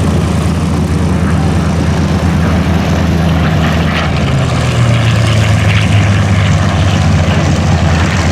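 Propeller warbird's Allison V12 engine droning as the plane flies past low on its landing approach. The engine tone drops in pitch about halfway through as it goes by.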